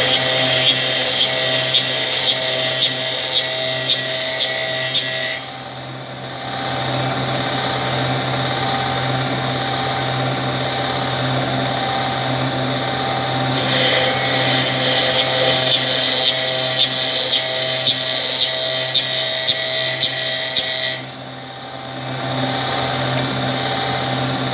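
Restored 1974 Raimann drill press running with a steady motor hum and a high whine; the whine drops out and the sound softens briefly about five seconds in and again about twenty-one seconds in.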